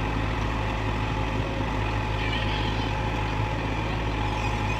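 Heavy diesel engine of an excavator or truck running steadily at a constant low speed, a deep even hum with no revving.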